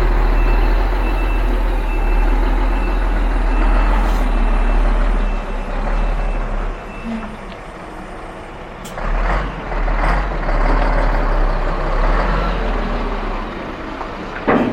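Concrete pump truck's diesel engine running as it manoeuvres, its reversing alarm beeping about twice a second for the first half, then stopping. Hissing bursts from the air brakes come later, with a sharp one near the end.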